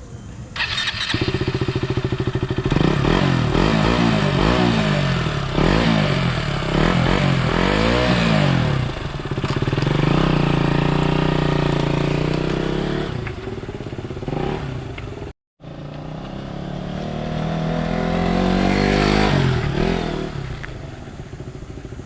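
KTM Duke 200's single-cylinder engine revved through its exhaust: a string of quick blips rising and falling in pitch, then a longer held rev. After a brief break there is one more slow rise and fall.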